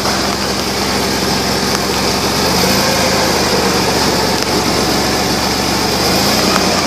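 1997 Chevy S-10 Blazer's 4.3-litre V6 running steadily, the engine note rising slightly and settling back about halfway through, over a constant high hiss.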